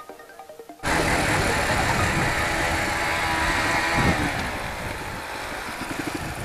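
Quiet background music that cuts off abruptly under a second in. Then a dirt bike's engine runs loudly and steadily on a rough track.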